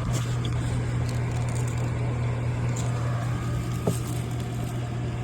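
Steady low machine hum, one constant low tone, with a single short click about four seconds in.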